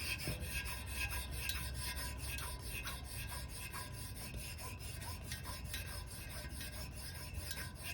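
A shoelace wrapped around an aluminum dirt bike wheel spoke, sawed rapidly back and forth to rub polish into the spoke. It makes a rhythmic scratchy rubbing, several strokes a second.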